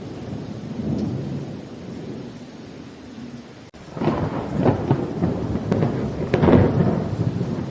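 Thunderstorm: steady rain under a low rolling rumble of thunder, then, after a split-second dropout about four seconds in, a louder peal of thunder with sharp crackling cracks that rolls on to the end.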